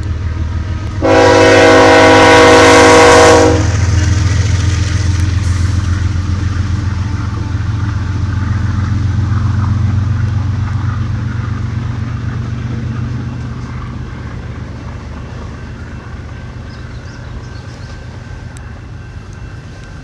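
Freight train's diesel locomotive horn sounds one long chord blast about a second in, the loudest sound here, over the low rumble of the passing train. The autorack cars then roll by with a steady rumble that slowly fades.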